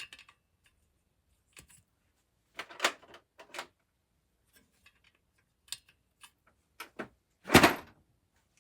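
Metal sockets and hand tools clinking and knocking in a scatter of separate short hits as they are picked up and sorted, with one louder clatter near the end.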